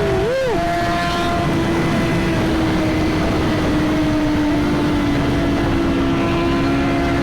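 Suzuki GSX-R1000 inline-four engine running steadily at highway cruising speed under steady wind rush. Its pitch rises and falls briefly just after the start, then holds level.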